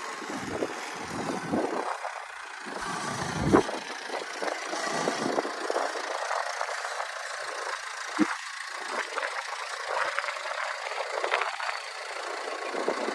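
A vehicle engine running steadily, with gusts of wind buffeting the microphone and a couple of sharp knocks.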